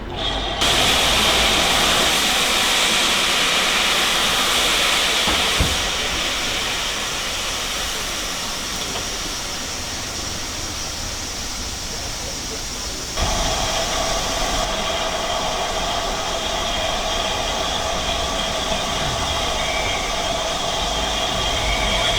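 GWR 2800-class 2-8-0 steam locomotive 2857 hissing steam loudly and steadily, starting suddenly about half a second in. The hiss changes character abruptly about six and again about thirteen seconds in.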